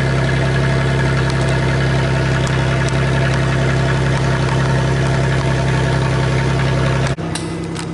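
Minivan engine idling steadily, its note loud and heavy for a minivan. The level drops suddenly about seven seconds in.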